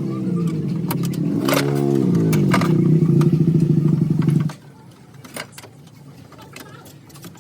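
A motor running with its pitch dipping and rising a couple of times, then cutting off suddenly about two-thirds of the way through, leaving light clicks and taps.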